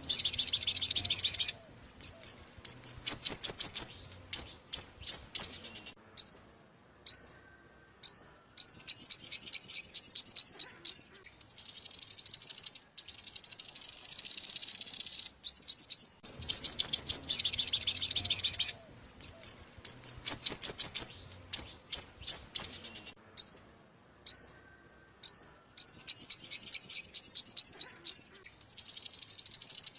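Sunbird song recording: rapid series of loud, high, thin chirps alternating with longer buzzy trills, broken by short pauses. It is a looped playback, the same phrase sequence repeating about every 16 seconds.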